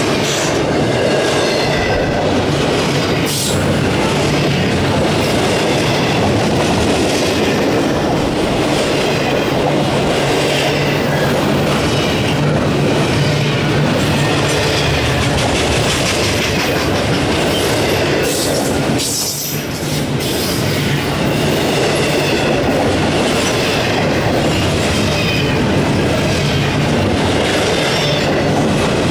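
Loaded double-stack intermodal well cars rolling past at close range: a steady, loud rumble and clatter of steel wheels on rail, with faint high wheel squeal coming and going. The sound dips briefly about two-thirds of the way through.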